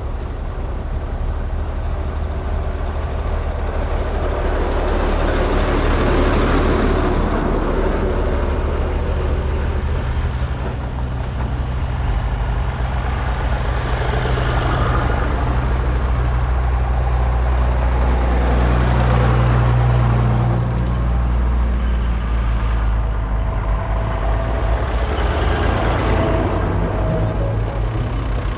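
Vintage tractor engines running as tractors drive past one after another, the engine noise swelling and fading several times as each one goes by.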